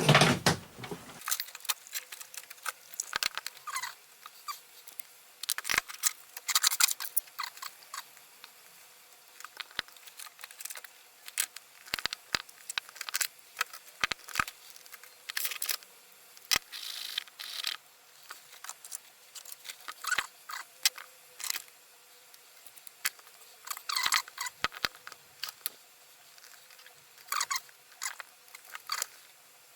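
Objects being handled on a workbench: irregular small clicks, taps and rustles, as when rummaging through tools, with a louder knock at the very start.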